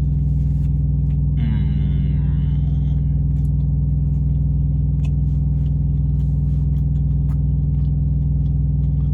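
Steady low hum of a parked car's engine idling, heard inside the cabin, with a few small clicks on top.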